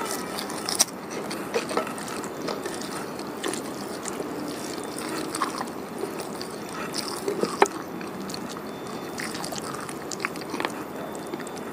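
Close-miked chewing of soft, sauced food such as stuffed tofu and boiled greens, with wet mouth sounds and scattered small smacks and clicks, a few of them sharper.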